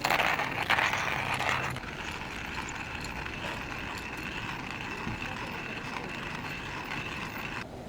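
A steady hiss, loudest for the first couple of seconds, then even until it cuts off suddenly near the end.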